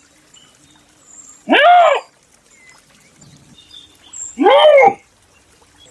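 An animal calling twice, about three seconds apart, each call a loud half-second wail that rises and then falls in pitch.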